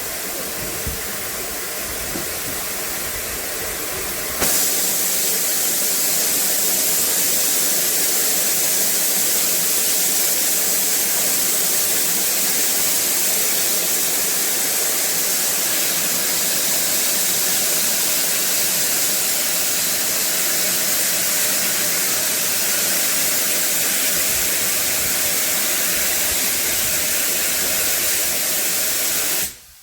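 Steam locomotive letting off steam in a loud, steady hiss that jumps louder about four seconds in and cuts off abruptly near the end.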